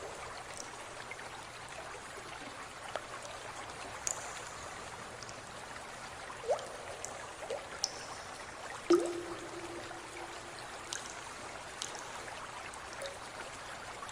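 Water running and trickling steadily, with scattered small drips and plops. A louder, sharper splash-like sound comes about nine seconds in.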